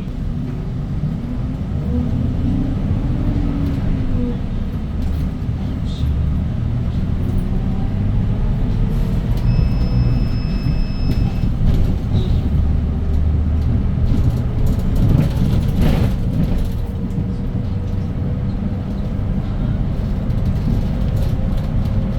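Cabin sound of a 2017 Hyundai Green City city bus on the move: its CNG engine with five-speed manual gearbox and the road noise make a steady low rumble. About ten seconds in there is a steady high beep lasting about two seconds, and around sixteen seconds a short burst of noise.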